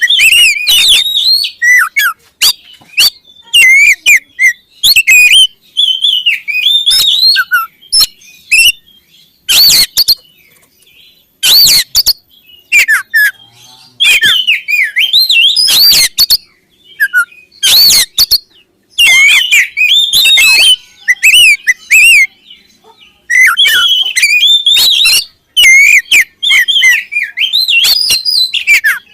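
Oriental magpie-robin (kacer) singing loudly in quick runs of varied whistled phrases with short pauses, broken by a few brief harsh notes.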